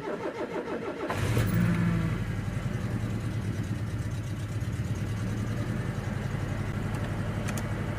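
1985 Subaru XT's flat-four engine cold-starting after sitting unused for a long while: the starter cranks for about a second, the engine catches, runs briefly higher and a little unhappy as it springs to life, then settles into a steady idle.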